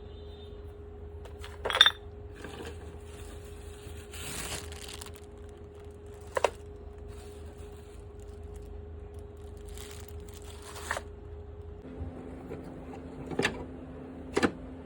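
Scattered sharp clinks and taps of small hard parts being handled, about five in all, with a couple of short scraping rustles between them. A steady low hum runs underneath and drops in pitch about twelve seconds in.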